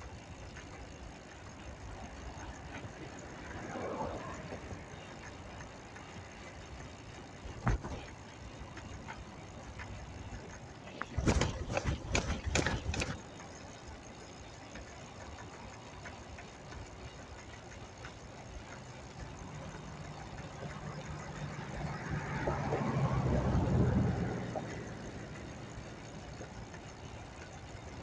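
City street traffic heard from a moving bicycle. There is a loud rattling clatter about 11 seconds in, and a motor vehicle's engine grows louder and passes close by near the end.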